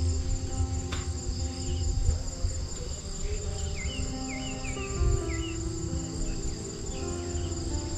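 Steady, high-pitched chorus of forest insects such as crickets, with a quick series of short chirps in the middle, over a low rumble.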